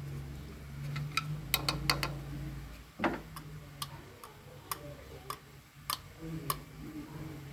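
Light, scattered clicks and taps of kitchen utensils against a bowl as sauce ingredients are added, over a low steady hum.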